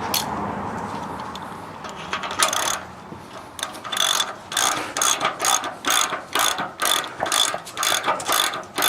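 Socket ratchet wrench clicking in quick, even strokes, about three a second, as a bolt is run in and tightened. The ratcheting starts about three and a half seconds in.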